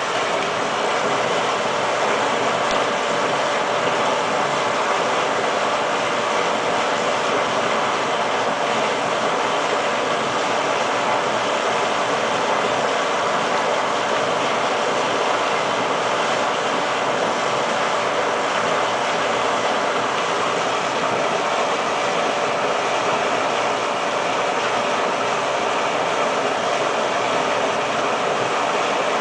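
Homemade water-heating system running steadily, its pump pushing water through the system at about 20 psi: a constant rushing noise with a steady hum over it.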